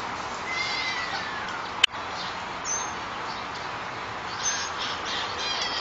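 Birds chirping, with short high whistled calls, one falling whistle about a second in, and quick chirps near the end. A single sharp click a little under two seconds in, over a steady background hiss.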